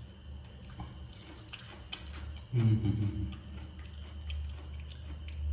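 A person chewing and eating crispy fried rohu fish, with many small wet mouth clicks and one short low voice sound about halfway through.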